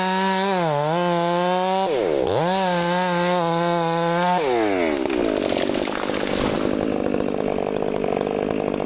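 Chainsaw at full throttle cutting wood, its pitch sagging under load. The throttle is let off and opened up again about two seconds in. After the revs fall again about halfway through, the saw runs on at a lower, rougher note.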